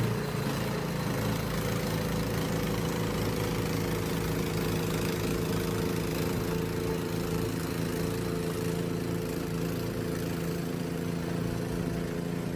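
Gasoline snow blower engine running at a steady speed, with a constant rushing noise over it.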